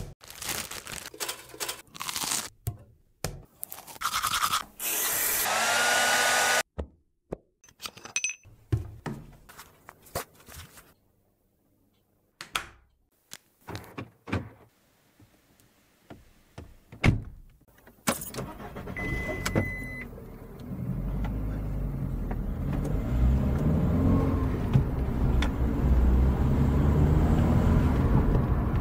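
A string of short household sounds (clicks, knocks, footsteps and a few seconds of loud whirring), then a short steady beep and a car engine starting and running as a low, steady rumble through the last ten seconds.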